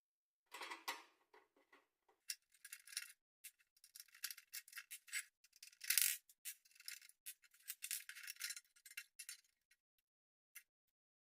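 Irregular small clinks, rattles and scrapes of hard parts and tools being handled, with the sharpest click about six seconds in; a rustling sound near the start.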